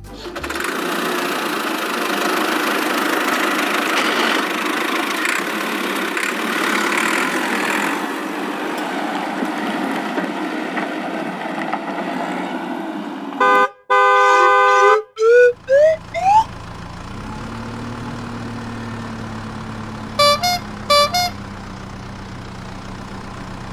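Cartoon vehicle sound effects. A long noisy engine rumble comes first, then a horn blast about 14 s in and a few quick rising tones. After that comes a low steady engine idle with two short horn toots.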